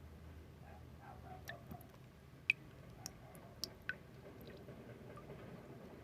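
ASMR trigger sounds: a scatter of short, sharp clicks and soft ticks over a faint low hum. The loudest click comes about two and a half seconds in, and a few more follow over the next second and a half.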